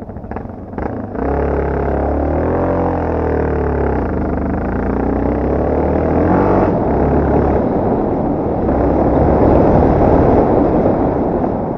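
Off-road motorcycle engine running, its pitch rising and falling with the throttle over a steady low drone, after a few sharp knocks in the first second.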